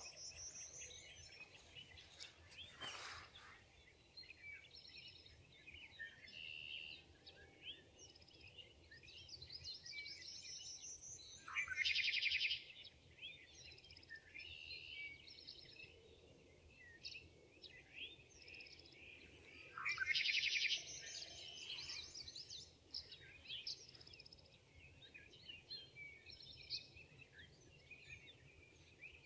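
Several wild songbirds singing and calling, with many short chirps. One bird's loud, fast trill, about a second long, stands out twice, about twelve and twenty seconds in.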